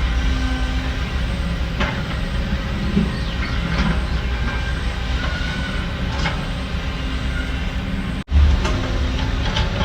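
Heavy earthmoving machinery at work: a steady low diesel rumble with scattered metallic clanks and short squeaks. The sound drops out for a moment about eight seconds in.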